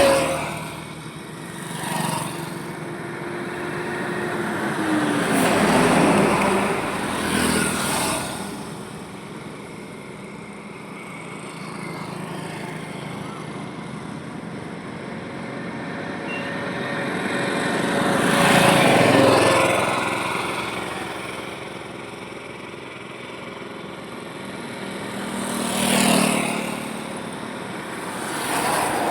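Highway traffic: vehicles passing one after another, each a rise and fall of engine and tyre noise over a steady road hum. The loudest passes come right at the start and about six, nineteen and twenty-six seconds in.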